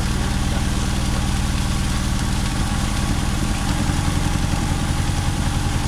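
Car engine idling steadily with an even, low firing beat, running a little rougher from about halfway through.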